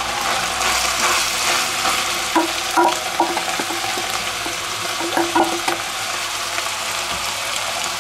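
Minced beef sizzling in a hot cast-iron cocotte as chopped onions and garlic are scraped in and stirred with a wooden spatula, with a few light clinks of utensils against the pot partway through.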